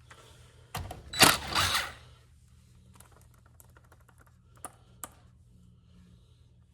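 Hand tools and small bolts being worked while taking bolts off a lawn mower: a sharp knock about a second in, then a short clatter of clicks, followed by a few faint scattered ticks.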